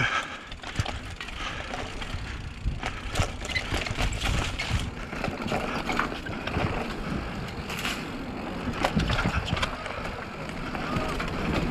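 Downhill mountain bike clattering over a rocky trail at speed: tyres, suspension and chain rattling, with frequent sharp knocks from rock impacts.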